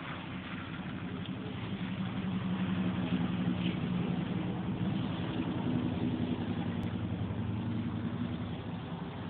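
A motor vehicle's engine running steadily with a low hum, growing a little louder over the first few seconds.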